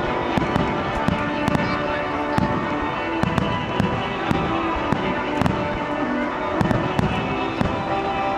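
Festival fireworks bursting in quick succession, a continuous run of low booms and sharp cracks several times a second. Music with held tones plays underneath.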